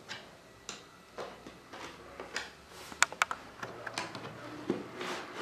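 Irregular light clicks and taps of cabinet parts being handled and the small pegs being fitted into the panel holes, with a few sharper clicks close together about three seconds in.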